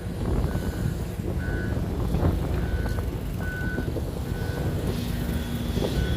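Reversing alarm on a piece of heavy construction machinery beeping about once a second, a short high single-tone beep, over the low, steady running of the machine's engine.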